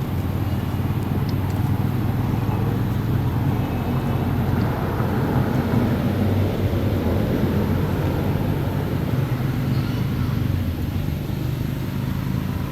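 Steady low mechanical hum of a running motor, continuous and even throughout.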